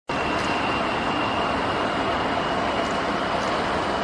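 Jet airliner engines, likely the Boeing 787-9's turbofans, running with a steady roar and a thin high whine held throughout.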